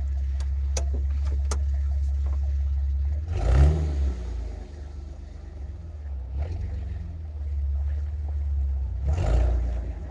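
Jeep Wrangler TJ's 4.0-litre straight-six running with a steady low rumble, rising in revs briefly about three and a half seconds in and again near the end.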